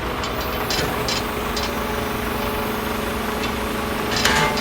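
Small motor of a homemade model mini bulldozer running steadily with an even hum, with a few light clicks early on and a sharper click near the end.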